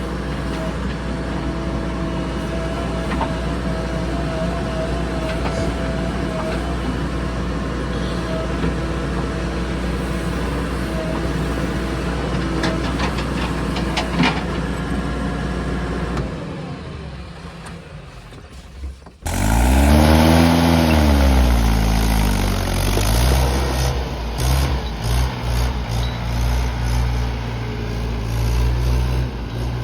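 Diesel engine of heavy machinery running steadily. It fades out about two-thirds of the way in, then comes back suddenly and louder, revving up and down before settling into steady running.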